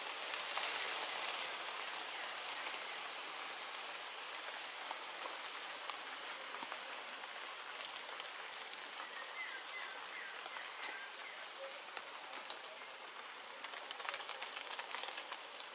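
Steady rain falling on forest leaves: an even hiss with many separate drops ticking through it.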